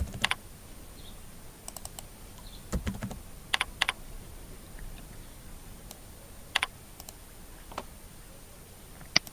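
Computer keyboard keystrokes: a few scattered clicks in small groups with long pauses between, and a soft low knock about three seconds in.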